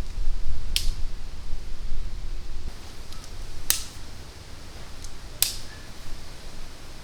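Three loud, sharp snaps or cracks a second or two apart, with a few fainter ticks, over a low rumble that dies down about halfway through.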